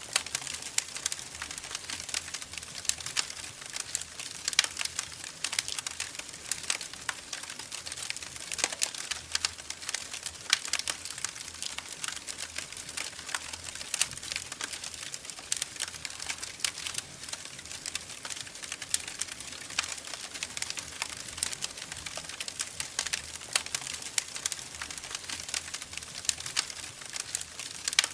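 Wood fire in a fireplace crackling steadily, with many irregular sharp pops and snaps over a faint hiss.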